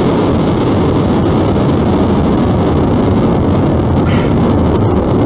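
Steady, loud car engine rumble with no distinct revs or impacts.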